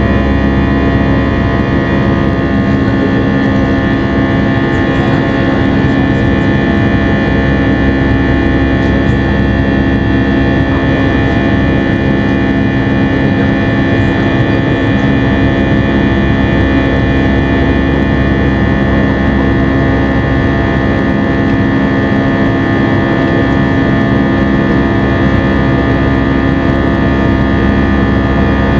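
Airbus A320 cabin noise: the twin jet engines running at a steady, unchanging roar, with a set of fixed humming tones over a broad rush of noise.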